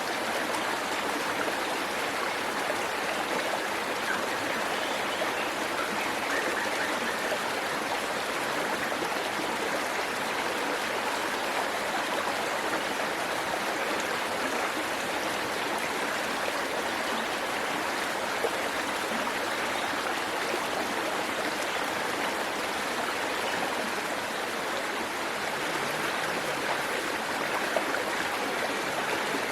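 Waterfall water rushing steadily: an even, unbroken wash of falling and flowing water.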